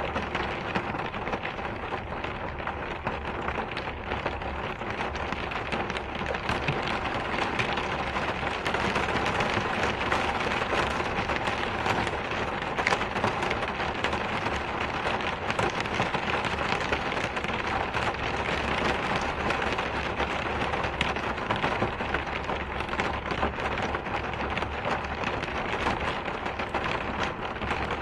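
Steady rain: a dense, even hiss of falling drops with fine patter, growing a little louder a few seconds in.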